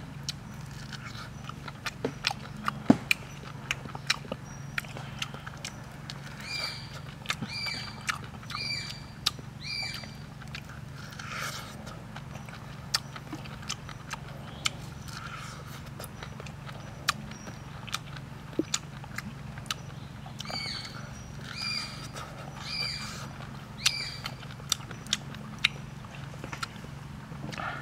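Close-up biting and chewing of grilled corn on the cob, with many crisp clicks as the kernels break between the teeth. Twice, a run of four short high calls sounds behind it, over a low steady hum.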